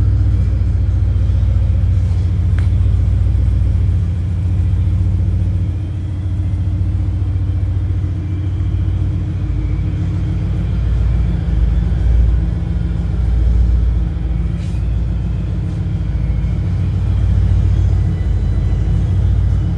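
Turbocharged Saleen S281 Mustang's V8 engine running with a steady low rumble, its loudness swelling and easing slightly.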